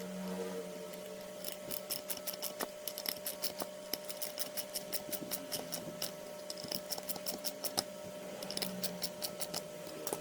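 A long run of sharp, quick clicks, about three or four a second in stretches with short pauses, over a steady hum.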